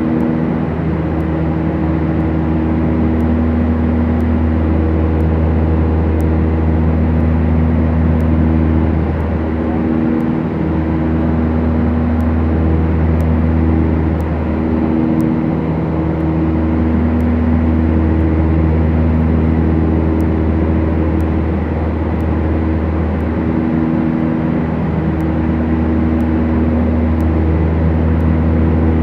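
Steady drone of a Beechcraft Duchess's twin four-cylinder Lycoming piston engines and propellers running at a constant power setting, with a slow wavering in the tone.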